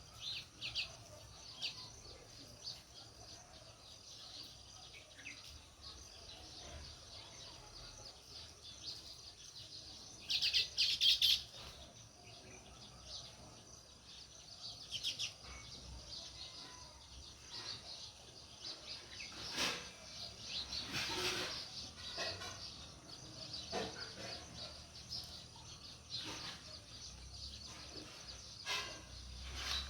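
House sparrows chirping in short, repeated bursts, with a loud run of chirps about a third of the way in.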